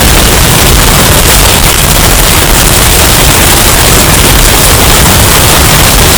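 Hurricane wind sound effect, bass-boosted and heavily distorted into a constant, very loud wall of noise with no let-up.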